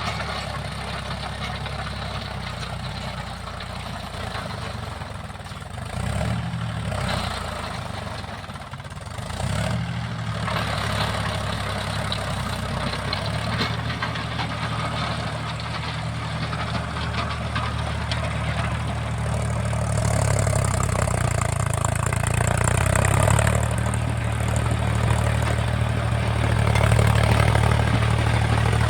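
Mahindra tractor's diesel engine running steadily while driving a rotavator, with a noisy clatter over the engine note. It grows louder about a third of the way in and again past the middle.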